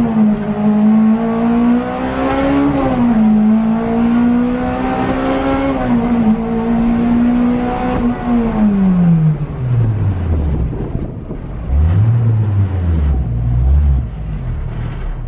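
Honda K20 four-cylinder engine in a Civic EP3 race car pulling hard on a track run, its pitch dropping briefly at the gear changes near the start and about three seconds in. About eight seconds in the revs fall away steeply as the car slows, followed by a few short throttle blips and a fresh rise in revs at the end.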